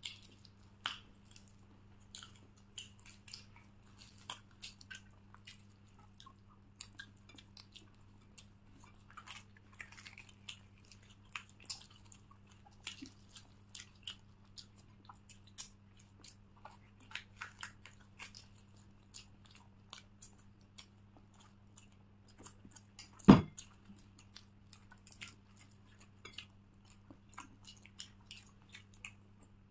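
Close-miked chewing and biting of luchi and egg curry, with many small wet mouth clicks. One sharp, much louder knock about three-quarters of the way through.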